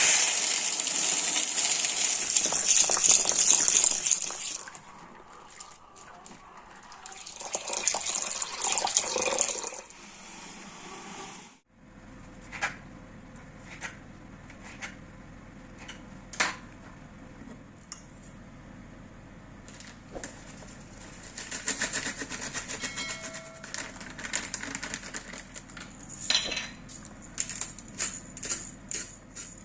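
Water running from a kitchen tap in two spells, filling or rinsing. After a sudden break, scattered clinks and knocks of dishes and utensils follow.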